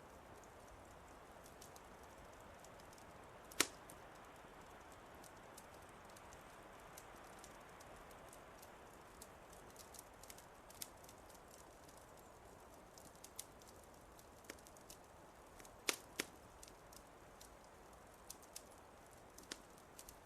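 Fireplace crackling: scattered sharp pops and snaps over a soft steady hiss, with a loud pop about three and a half seconds in and two more close together near the end.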